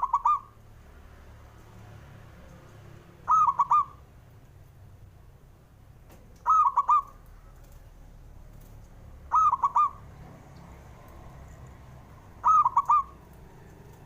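Zebra dove (perkutut) cooing: five short phrases, each a quick run of about four rolling notes, about one every three seconds.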